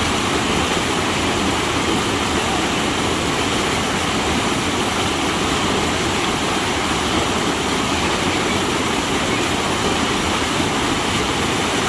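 Waterfall: a steady, loud rush of falling water close to the microphone.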